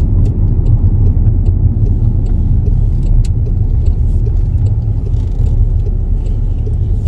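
Steady low rumble of a car being driven.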